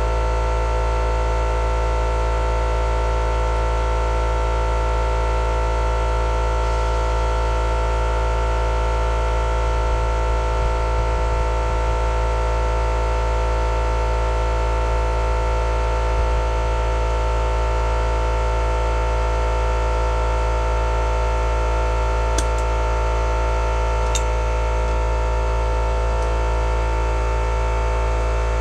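A steady, unchanging hum made of a deep drone and several fixed higher tones, with two brief clicks near the end.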